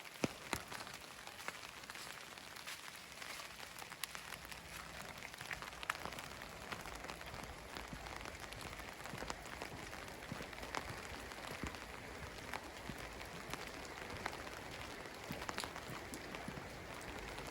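Outdoor ambience: a steady hiss with many light, irregular ticks and patters scattered through it.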